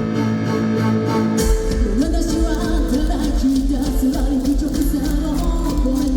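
Live rock band playing, heard through a fan's recording in an arena: sustained guitar and keyboard chords, then bass and drums come in about a second and a half in and singing follows.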